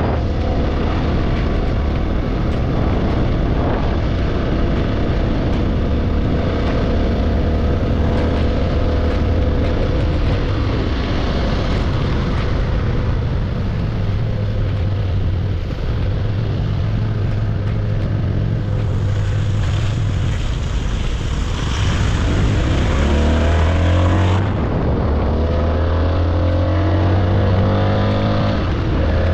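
Motorcycle engine running as the bike is ridden, with a steady hum and wind and road noise. The engine pitch rises as it accelerates about three quarters of the way through, and again shortly after.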